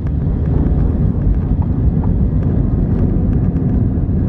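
Steady low rumble inside an Airbus A319 cabin while the jet taxis on the ground, its wheels and engines running, with faint clicking rattles scattered through it.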